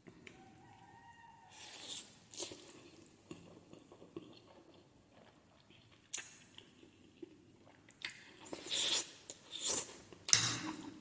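Close-up eating sounds of spicy Korean instant noodles: intermittent chewing and slurping, with louder bursts in the last few seconds.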